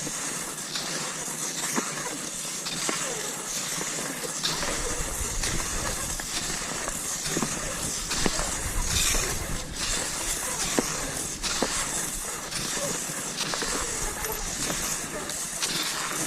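Cross-country skis gliding over snow in a steady hiss, with scattered sharp clicks and crunches. A low rumble comes in about four seconds in and drops away near the end.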